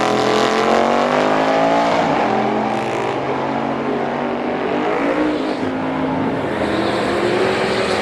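Drag-racing engines running at high revs during a run down the strip, a loud steady engine sound whose pitch slowly slides.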